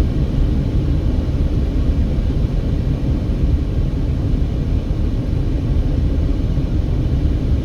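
Steady low rumble of a car driving uphill: engine and tyre noise with no change in pace.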